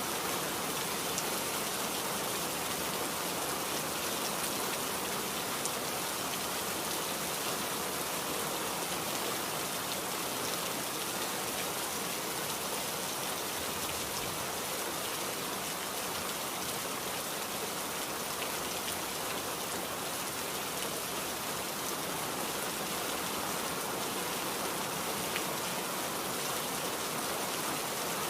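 Steady rain falling, an even hiss with faint drop ticks that holds without a break.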